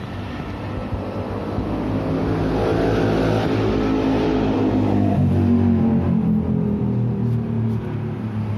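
Car engine running through its exhaust, revving up over the first few seconds and then settling back lower.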